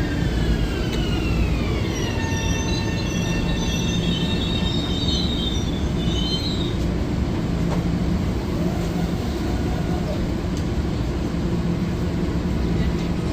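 Metro-North electric commuter train in the station: the electric motor whine falls in pitch over the first two seconds, then holds steady as the train slows. High wheel squeal comes in from about two to seven seconds in, over a steady rumble of the cars.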